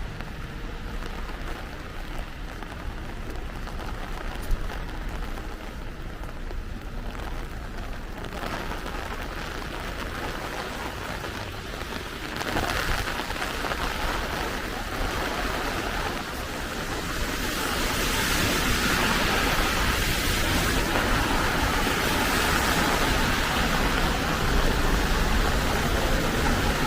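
Heavy rain falling steadily, a dense hiss that grows louder about halfway through and louder again a few seconds later, with a low rumble underneath.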